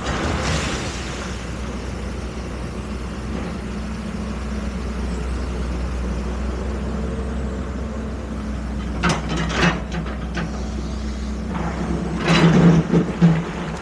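Heavy diesel engine running steadily, with a few louder surges near the end.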